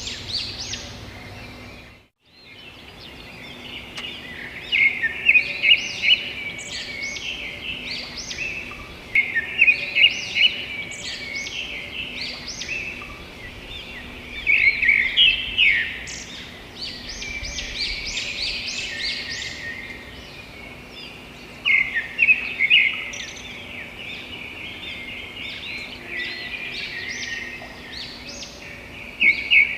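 Several birds chirping and chattering in loud bursts every few seconds over a faint steady hum, with a brief break in the sound about two seconds in.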